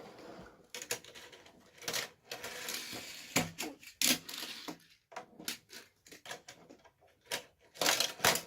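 Plastic toy cars and track pieces clicking and clattering irregularly as they are handled and rolled along a toy track set.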